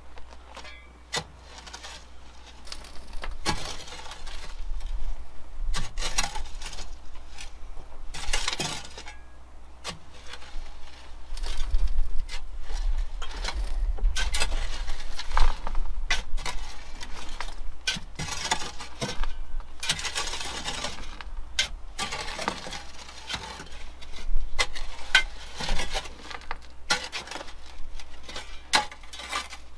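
Shovels scraping and digging into gravelly soil and tossing it back into a trench over buried pipe, a long run of irregular scrapes with sharp metallic clinks of blade on stones.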